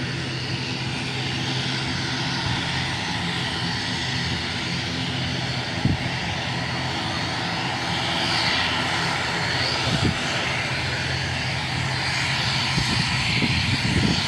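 ATR 72-600's twin Pratt & Whitney PW127 turboprop engines running with a steady propeller drone. A few brief low thumps, the clearest about six seconds in.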